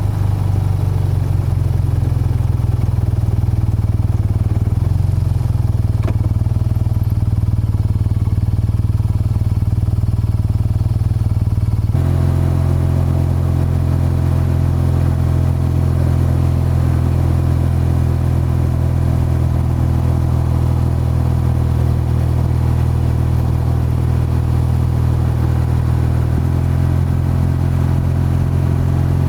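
BMW R12 motorcycle's boxer-twin engine and exhaust running at a steady pace while riding. The note steps to a new steady pitch three times: slightly about five seconds in, more clearly about twelve seconds in, and again near the end.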